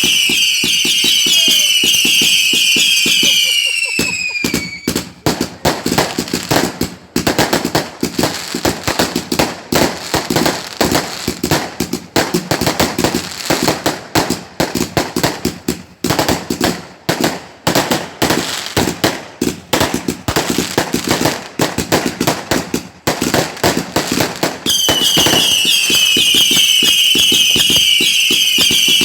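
Fireworks going off in quick succession: several whistles at once, each falling in pitch, for the first few seconds. Then about twenty seconds of dense, rapid crackling bangs, and the falling whistles again near the end.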